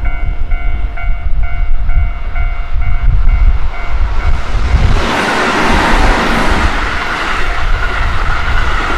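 Keihan 8000-series electric train approaching and passing close by. A level-crossing warning bell rings about twice a second over the train's low rumble, stopping about four seconds in. Then the loud rolling rush of the cars going past takes over.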